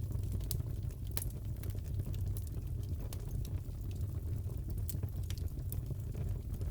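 Crackling wood fire in a fireplace: a steady low rumble of the burning fire with scattered sharp pops and crackles, one of the brighter pops about a second in.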